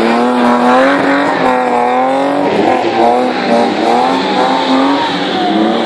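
Car engine revving hard while the car drifts sideways on loose dirt. The engine note climbs and drops over and over as the throttle is worked through the slide.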